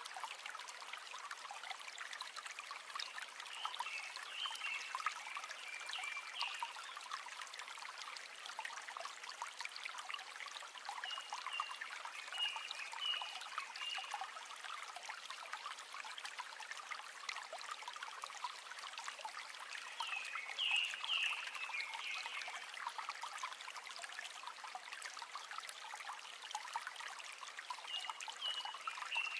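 River water trickling and burbling steadily, light and without any deep rumble. Short high chirps come through in four brief bouts.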